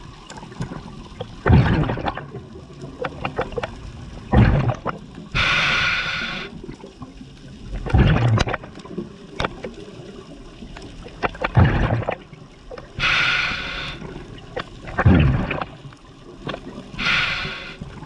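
Scuba diver breathing through a regulator underwater: several hissing inhales through the regulator alternate with short bubbling bursts of exhaled air, about one breath every few seconds.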